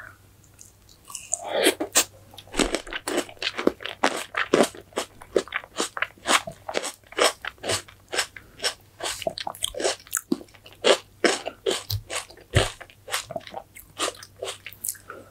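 Chewing crisp green grapes with whipped cream, picked up close by an eating-sound microphone: rapid wet crunches and clicks, several a second, starting about a second in.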